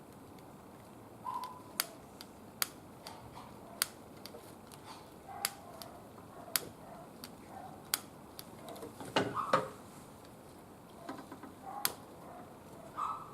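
Wood fire burning in a barbecue grill, crackling with irregular sharp pops, and a louder knock about nine seconds in.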